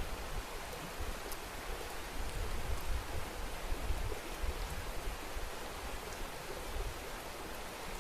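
Winter wind blowing steadily, with low, uneven rumbling of gusts buffeting the microphone.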